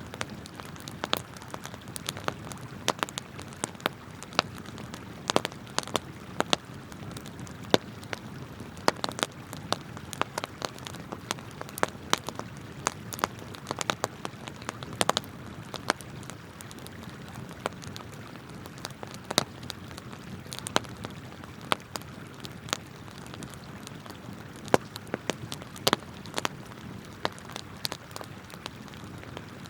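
Wood campfire crackling, with frequent irregular sharp pops and snaps, over the steady rush of a flowing river.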